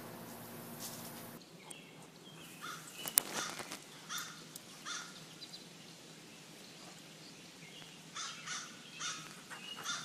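A bird calling in two runs of short calls, each repeated a little more than once a second: one run starts about two seconds in and the other comes near the end. A single sharp click falls among the first run.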